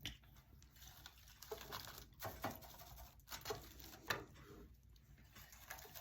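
Faint, scattered rustles and soft taps of dry raffia being handled and pressed down while hot-gluing.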